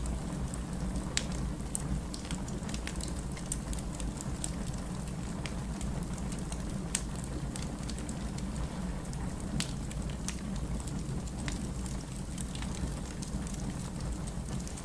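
Wood fire burning in a fireplace: a steady low rumble of flame with scattered, irregular sharp crackles and pops of the burning logs.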